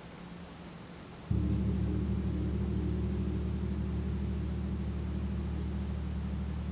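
A gong struck softly about a second in, giving a low, sustained ringing of several tones that slowly fades. This is the opening stroke of a gong sound-bath session.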